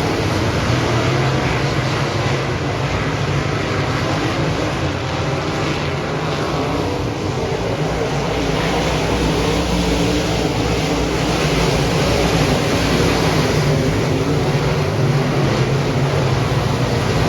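Dirt modified race car engine running hard at racing speed, a steady loud drone that eases slightly about halfway through before building again.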